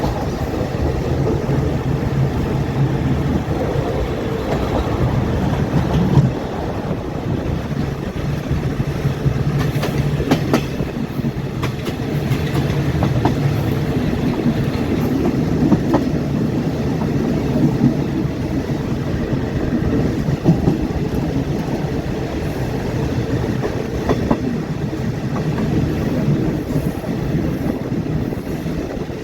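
Passenger train running on the rails, hauled by a Hitachi diesel-electric locomotive: a steady low rumble of wheels and carriage with a few sharp clicks over rail joints.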